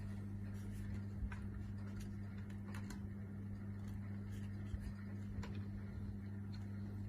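Steady low electrical hum, with a few faint, scattered clicks and taps.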